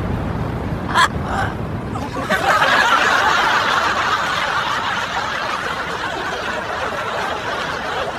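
Laughter lasting several seconds, after two short sharp sounds about a second in.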